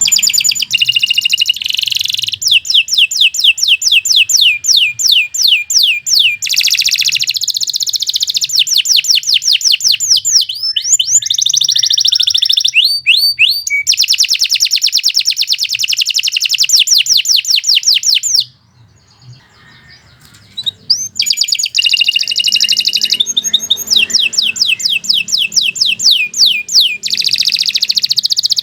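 Domestic canary singing long, rapid trills of repeated high chirping notes, phrase after phrase, with a short break about two thirds of the way through.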